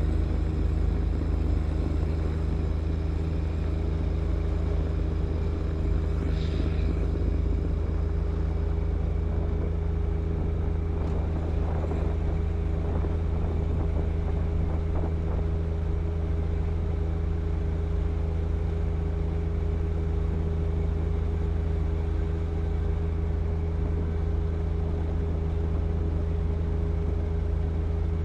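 John Deere 1025R compact tractor's three-cylinder diesel engine running at a steady speed, with a constant low drone.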